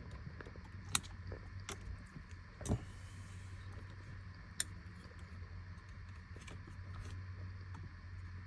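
A few sharp clicks and small handling sounds of hands working a plastic wiring connector loose from a Tesla Model 3 steering wheel, over a low steady hum.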